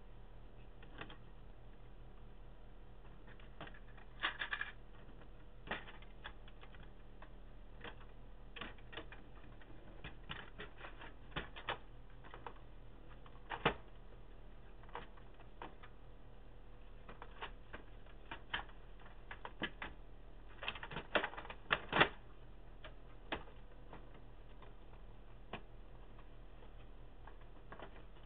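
Irregular light clicks and knocks of plastic parts being handled and fitted together while the Canon Pixma MP-780 all-in-one printer is reassembled, with small clusters of sharper snaps, over a steady low electrical hum.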